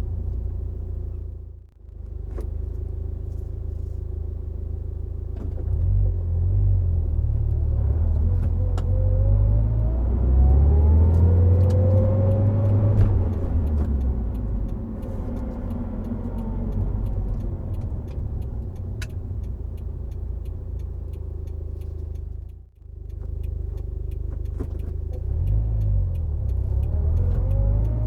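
Subaru Impreza WRX STI Spec C's flat-four engine through an A-RM aftermarket muffler, driving on the expressway with a steady low engine and road rumble. The engine note rises in pitch and gets louder under acceleration through the middle and again near the end, and the sound drops out briefly twice.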